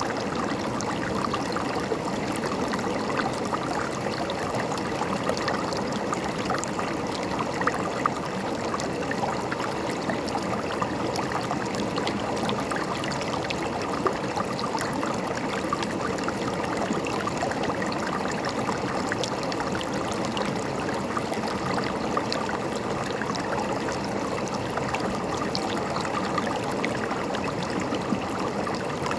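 A river flowing: a steady rush of water with many small splashes.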